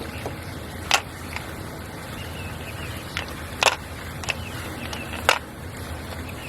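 Mahjong tiles clacking on a table as discards are laid down: three sharp clacks spread through, with a few softer ticks between, over a steady low hum.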